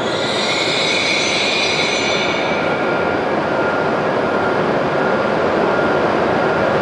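JR East E7 series Shinkansen train coming to a stop, with a high squeal from the braking train that fades out about two and a half seconds in. After that the standing train's equipment gives a steady hum with a faint whine.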